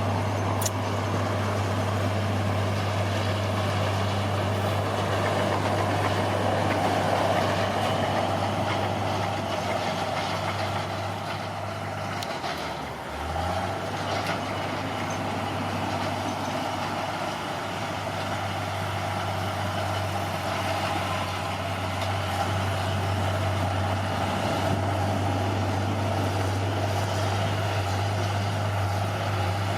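Bulldozer's diesel engine running steadily with a low, even drone that briefly dips a little before halfway through.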